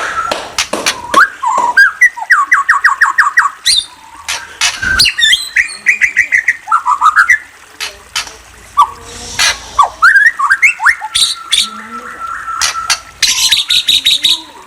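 A bird chirping and chattering without pause: fast runs of short rising notes, several a second, mixed with sharp clicks and squawks, and a held whistled note in the last few seconds.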